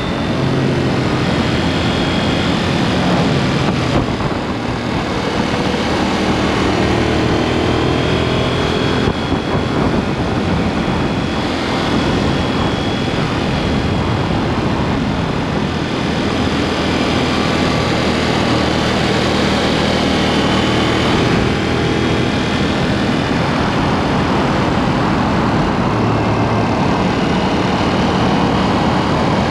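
KTM Duke 790's parallel-twin engine running through an aftermarket SpeedPro Cobra SPX exhaust while riding. Its pitch rises and falls several times with throttle and gear changes, over steady wind and road noise.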